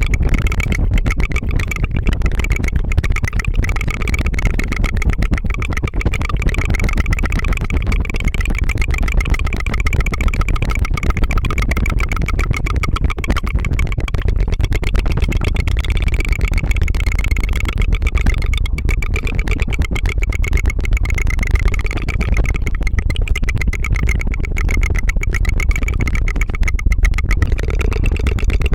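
ASMR tongue fluttering close to the microphone: a fast, unbroken patter of tongue flicks, a "tu-tu-tu" that goes on without a pause.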